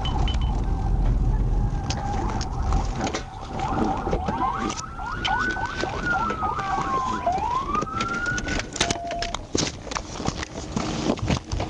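Police siren wailing, sweeping up and down in pitch about halfway through, over a steady tone and the low rumble of a vehicle at first, with a cluster of sharp clicks and knocks near the end.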